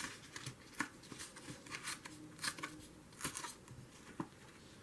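Paper being torn by hand along its edge: a string of short, faint, irregular rips and rustles.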